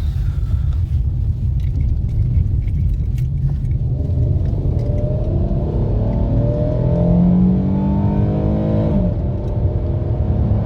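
Dodge Charger's V6 engine and road rumble while driving. About four seconds in, the engine note rises steadily as the car accelerates, then drops away suddenly near the nine-second mark. The engine has a random multiple-cylinder misfire, which the owner blames on worn ignition coils and spark plugs.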